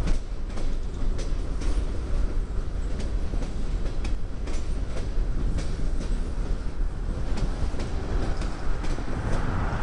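Approaching train running along the track: a steady low rumble with scattered clicks.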